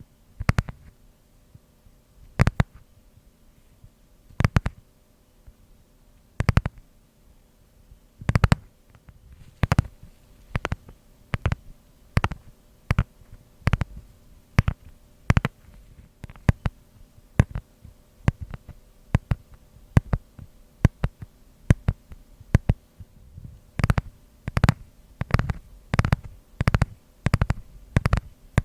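Fingers tapping on a blackboard eraser: sharp taps with a dull low thud. For the first third they come about two seconds apart, then they come faster, in quick little clusters.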